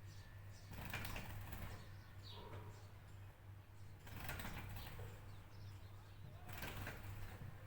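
Birds heard faintly: a few short chirps and, about every three seconds, a rustle or flap of noise, over a steady low hum.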